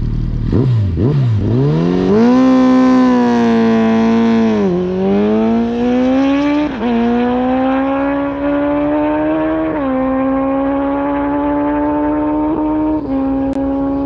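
Kawasaki ZX-14R's inline-four engine, fitted with an aftermarket exhaust, at full-throttle acceleration. Its pitch climbs steeply and then dips briefly and climbs again at each upshift, several times.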